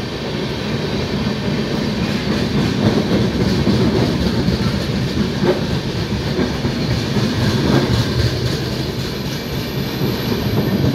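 Coaches of the Howrah–Dibrugarh Express running through a station without stopping: a steady loud rumble of wheels on the rails, with a few clacks over the rail joints.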